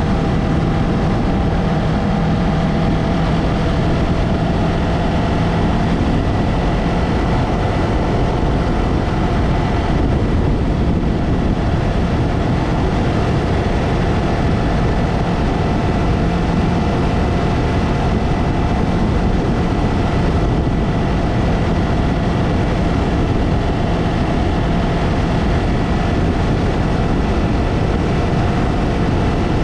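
Yamaha MT-03 motorcycle on the move at a steady speed, engine and exhaust running evenly without big revs, under a dense rush of wind noise.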